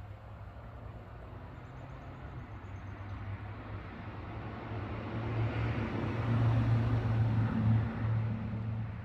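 A motor vehicle going past: a low engine hum and road noise that build up, are loudest about six to eight seconds in, and ease off near the end.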